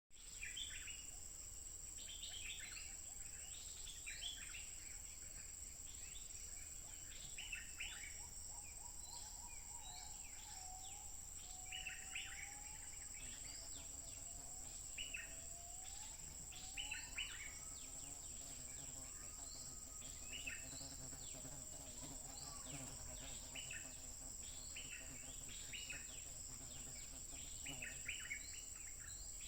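Faint calls of a wild stripe-throated bulbul: short notes repeated in quick phrases, with a few lower rising whistles in the middle, over a steady high-pitched insect drone.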